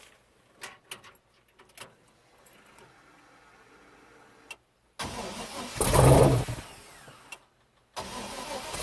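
A 6.0-litre V8 cranking and firing on its first startup. Faint clicks at first; about halfway in it starts abruptly, flares up loud and dies away, then fires again near the end and keeps running.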